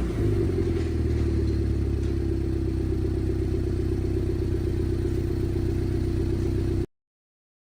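Mini Cooper S F56's turbocharged 2.0-litre four-cylinder, fitted with a JCW cat-back exhaust, dropping from a rev back to a steady idle. The sound cuts off suddenly near the end.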